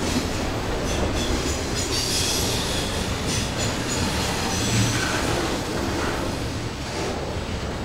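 Double-stack intermodal freight cars rolling past close by: a steady rumble of steel wheels on rail, with irregular clacks and a thin, high wheel squeal that is strongest about two to three seconds in.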